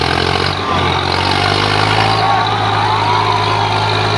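Diesel tractor engines running hard and steady under heavy load, pulling against each other in a tug-of-war.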